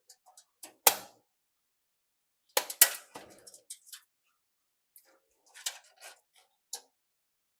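Scattered clicks, knocks and clatter of computer hardware being handled during assembly: one sharp knock about a second in, a quick burst of clatter near the middle, then a few lighter clicks.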